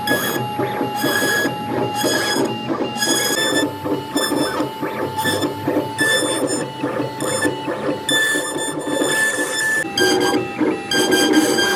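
CNC router carving wood: its stepper motors whine in short, quickly repeated moves, with the pitch of the whine changing from move to move over the noise of the cut.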